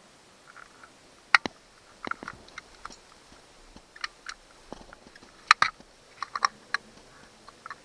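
Irregular sharp clicks and taps from hands and a tool working on the parts of an outboard's remote control box, in small clusters; the loudest come about a second and a half in and about five and a half seconds in.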